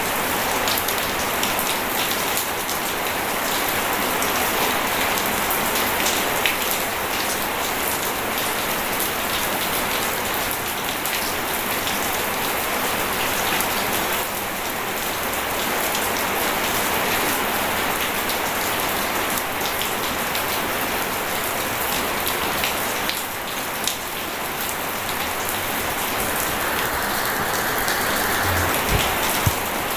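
Steady rain falling, a dense even patter of drops with a few sharper single drops.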